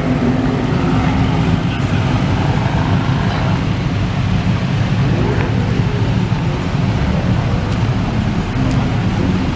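Engines of a queue of rally cars, Hummer H2 SUVs nearest, running at idle, a steady low rumble.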